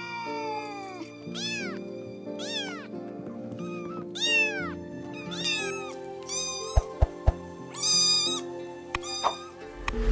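Domestic cat meowing again and again, roughly one meow a second, each call rising and falling in pitch, over background music. Three short thumps come about two-thirds of the way through.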